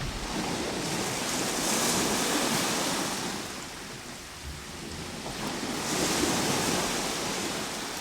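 Ocean waves breaking and washing in surf, swelling twice, about four seconds apart.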